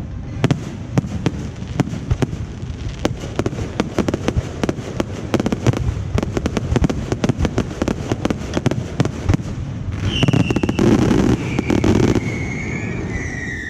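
Fireworks and firecrackers going off in a dense run of sharp crackling pops. About ten seconds in there is a louder, fuller burst, followed by high wavering whistles that slide down in pitch near the end.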